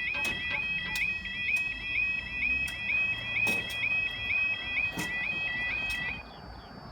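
Level crossing audible warning alarm sounding a rapid, repeating electronic warble, which cuts off about six seconds in.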